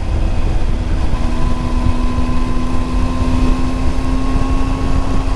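Triumph Tiger 800's three-cylinder engine running at a steady cruising note, with a heavy rumble of wind and road noise underneath.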